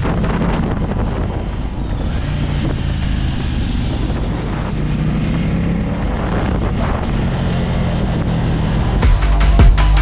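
Motorcycle engine running at a steady pace while riding, with wind noise on the microphone. About nine seconds in, electronic music with a heavy beat cuts in loudly.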